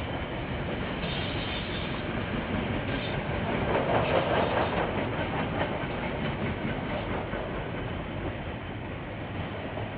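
KiwiRail freight train rolling past, its wagon wheels clicking over the rail joints in a steady clatter that grows louder about four seconds in.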